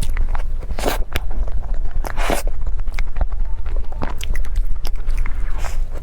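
A person biting and chewing food close to the microphone: a run of small wet clicks and smacks, with a couple of louder bites.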